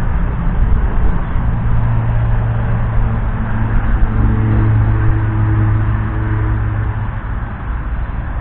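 Valtra T174 tractor's 7.4-litre six-cylinder diesel engine running, a steady low hum that grows stronger through the middle and eases off near the end.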